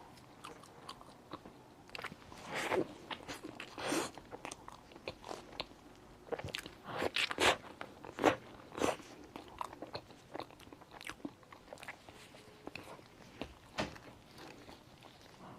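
Close-up chewing and biting of a thick-skinned bun with a molten filling: irregular wet mouth clicks and smacks, busiest about halfway through.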